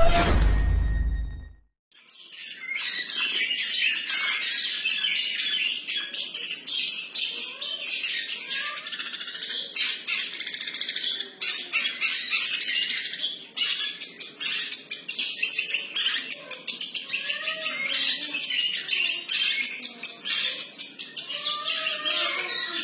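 Long-tailed shrike (cendet) singing a continuous, varied 'freestyle' song of rapid high chirps and harsher notes, without pauses. It begins about two seconds in, after a brief loud horn-like tone that cuts off suddenly.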